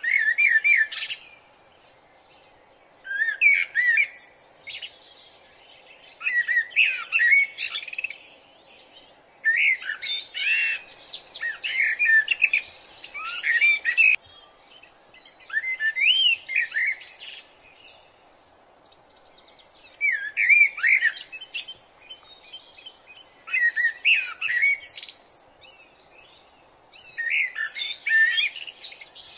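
Songbird singing: bursts of rapid chirps and warbles, about eight of them with pauses of a second or two between, over a faint steady background hiss.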